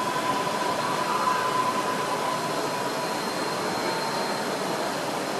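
Steady background noise of a busy model railway exhibition hall, with a thin steady whine that fades out about three to four seconds in.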